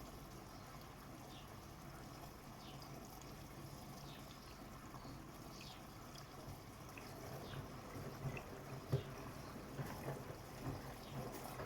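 Bosch Serie 6 WAT286V0 washing machine on a 90 °C hot wash: water faintly splashing and trickling in the drum over a steady low hum. The last few seconds turn busier, with a louder knock.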